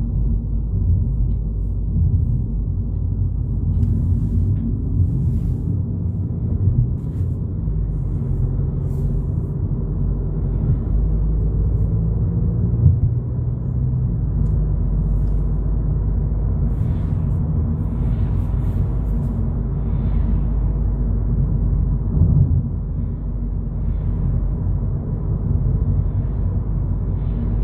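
Steady low road and engine rumble heard inside the cabin of a 2022 Volkswagen Polo GTI driving along, with a few faint light ticks and rattles over it.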